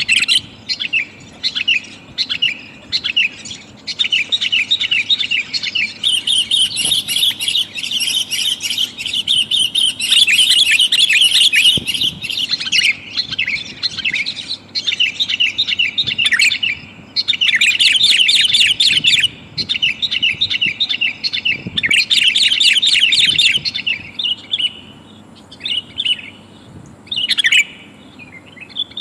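Sooty-headed bulbul calls, billed as a female calling to males: bouts of rapid, high chattering notes with short pauses between them, thinning to a few scattered calls near the end.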